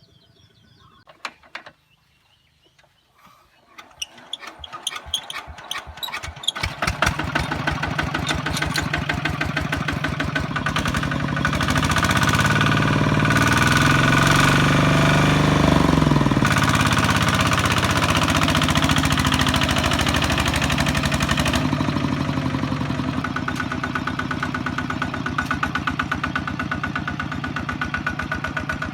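Kubota ZT155 two-wheel tractor's single-cylinder diesel engine starting: after a few quiet seconds, firing strokes quicken and it catches about seven seconds in. It then runs steadily, rises for a few seconds around the middle and settles back to a steady run.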